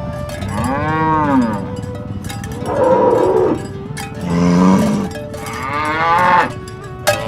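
Cattle mooing: four long calls one after another, the first swelling up and falling back in pitch.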